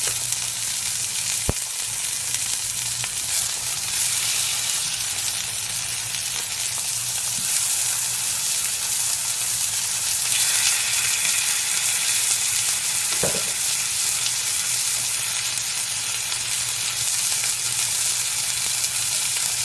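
Chicken thighs sizzling steadily in hot olive oil as they brown in the pan. A sharp click comes about a second and a half in, and a brief knock about thirteen seconds in.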